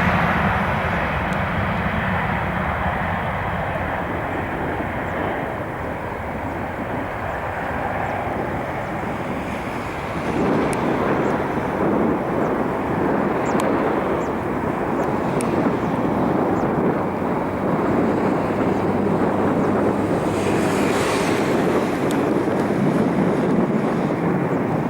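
Boeing 737-800 jet airliner's CFM56-7B turbofan engines running, a continuous rushing roar that grows louder about ten seconds in.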